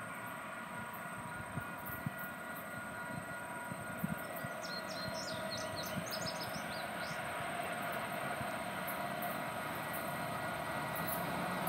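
Freight train approaching, its rumble building slowly, with a faint steady whine held throughout. A bird chirps briefly in the middle.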